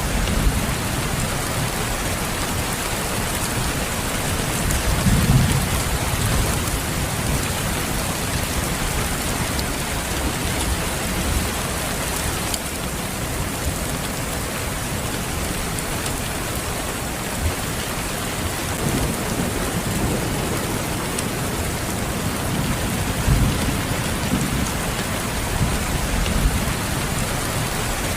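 Steady rain falling, an even hiss, with low rumbles of thunder swelling up now and then, the strongest about five seconds in.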